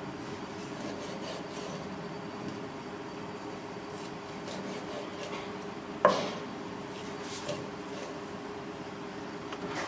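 Kitchen work sounds: steady rubbing and scraping over a low background hum, with one sharp knock about six seconds in.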